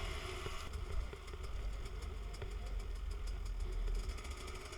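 Dirt bike engine running steadily, half buried under heavy wind rumble on the microphone.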